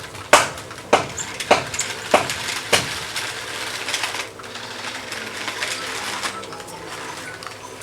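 A hard object knocking at an even pace, about one knock every 0.6 s, for the first three seconds. A light rattling clatter follows and fades out about four seconds in.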